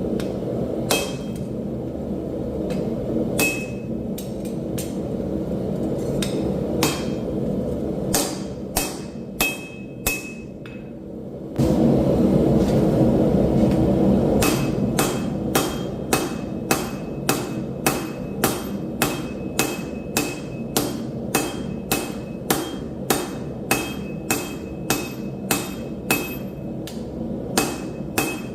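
Forging hammer blows on steel on an anvil, scattered at first, then a steady run of about two blows a second, many leaving a short metallic ring. A steady rushing noise runs underneath and swells loudly for a couple of seconds just before the even hammering starts.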